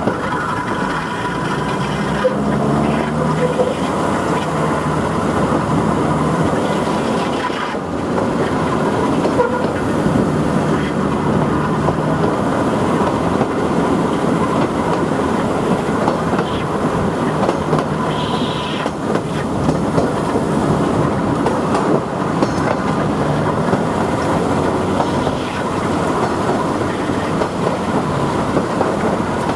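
Queensland Rail 2000 class railcar running along the line: a steady rumble of wheels on rails with a faint constant whine. There is a brief high squeak about two-thirds of the way through.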